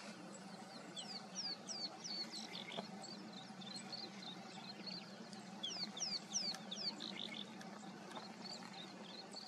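Small birds chirping in many quick, high, sweeping notes, busiest and loudest about six to seven seconds in, over a steady low hum.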